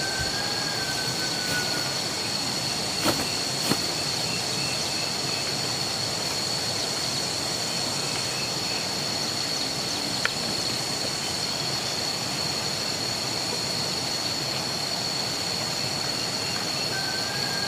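A steady high-pitched whine that holds one pitch over a constant hiss, with a few sharp knocks and a short falling whistle right at the start and again near the end.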